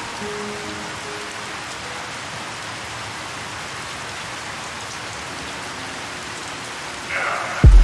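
Steady rain falling. Right at the end comes a sudden loud low boom.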